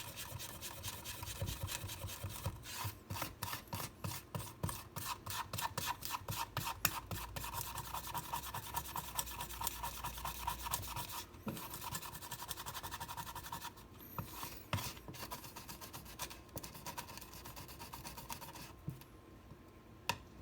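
Rubbing and scrubbing strokes on the steel blade of a chef's knife, scouring off sticky glue residue. Quick back-and-forth strokes, about three or four a second, thin out into a few scattered strokes past the middle and stop near the end.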